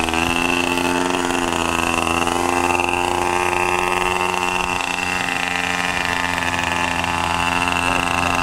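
In-line model engine of an RC airboat running steadily with its propeller. The engine speed rises slightly and then settles back around the middle.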